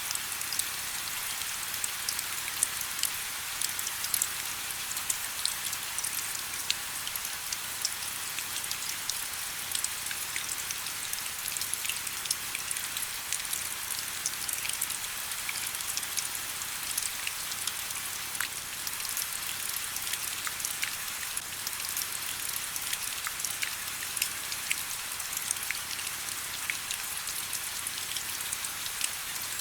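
Steady rain falling, a constant hiss full of many small, sharp drop ticks.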